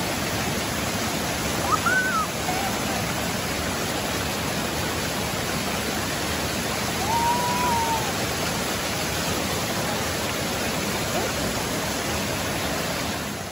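Mountain stream rushing steadily over rocks, an even roar of water. Two brief rising-and-falling whistles sound over it, about two seconds in and again about seven seconds in.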